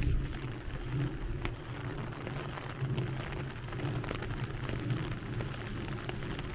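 Heavy rain falling, with scattered sharp drop ticks over a steady low rumble.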